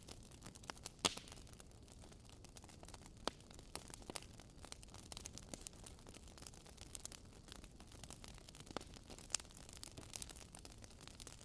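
Wood fire crackling in a fireplace: irregular sharp pops and snaps over a faint steady hiss, with a few louder pops about a second in, around three seconds and near the end.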